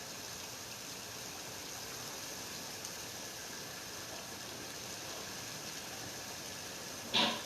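Steady hiss of heavy rain. A single short knock cuts in near the end, louder than the rain.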